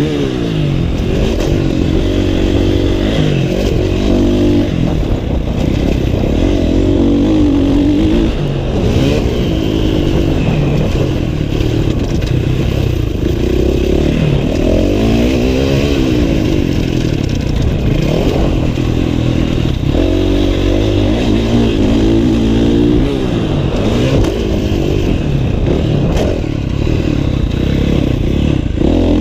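Motocross dirt bike engine revving hard and easing off over and over on a motocross track, its pitch climbing and falling every second or two as it goes up and down the gears.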